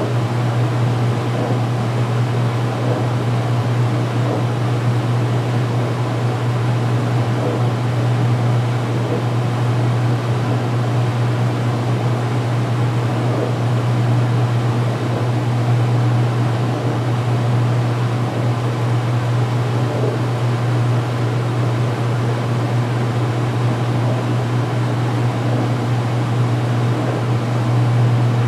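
2016 Speed Queen top-load washer in its final spin-drain, the basket spinning at speed with a steady low motor hum and whir.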